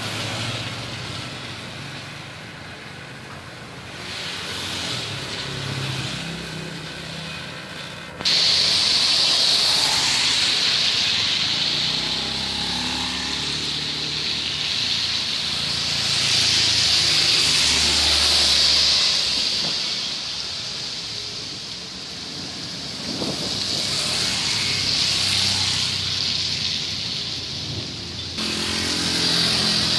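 Heavy rain hissing down on a wet asphalt road, with passing traffic: engine hum in the first several seconds and the swish of tyres on the wet surface later. About a quarter of the way in the rain noise jumps abruptly much louder, then swells and fades.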